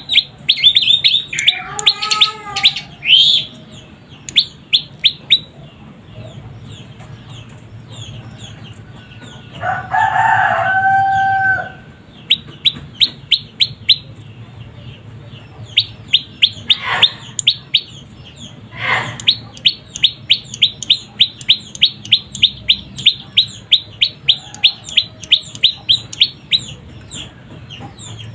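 Young prenjak lumut (prenjak pyeng) calling in fast runs of short, high chirps, several a second, broken by pauses. About ten seconds in, a rooster crows once, lower and longer than the chirps.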